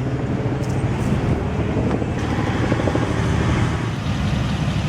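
2012 BMW X5 M's twin-turbocharged 4.4-litre V8 idling steadily.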